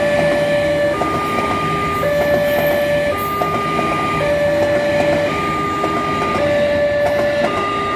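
Level-crossing warning alarm sounding a two-tone electronic chime that switches between a higher and a lower pair of notes about once a second, over the noise of an electric commuter train passing over the crossing at speed.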